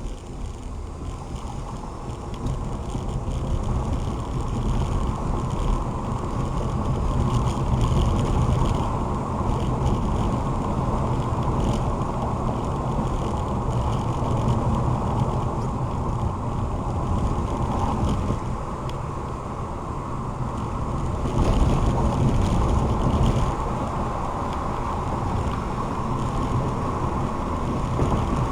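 Truck driving: a steady low engine and road rumble that swells over the first few seconds and then holds.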